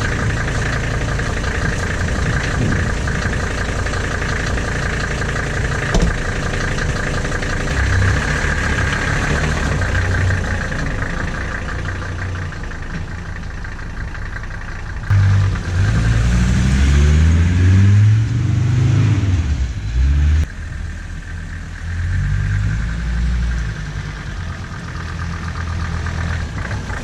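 Mercedes OM617 five-cylinder diesel engine idling, then revving up and down several times, louder, from about fifteen seconds in and dropping back suddenly a few seconds later, with one shorter rise before it settles back to idle. A single sharp click about six seconds in.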